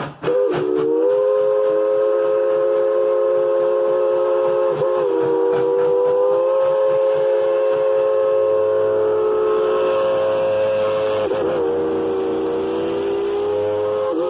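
Narrow-gauge steam locomotive's whistle blowing one long blast, a chord of several tones sounding together, wavering briefly about five seconds in and again near eleven seconds.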